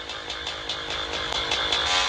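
Motorcycle engine running while riding on the road: a rapid, even pulsing over a steady rush of noise.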